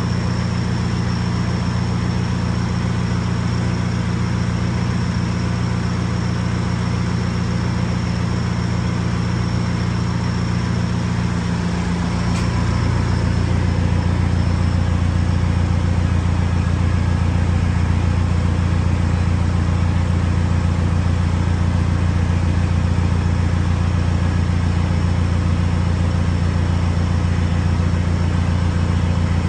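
Vehicle engine idling with a steady low hum. About twelve seconds in there is a click, and the hum drops lower and grows a little louder.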